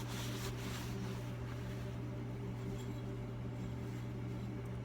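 Steady low machine hum with several steady tones above it, even in level throughout; a few faint light clicks in the first half second.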